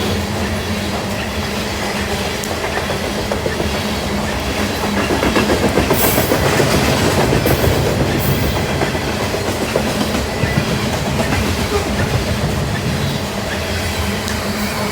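Norfolk Southern freight train rolling past, its wheels clicking rhythmically over the rail joints under a steady rumble. It gets louder for a few seconds around the middle, with a few short high-pitched bursts.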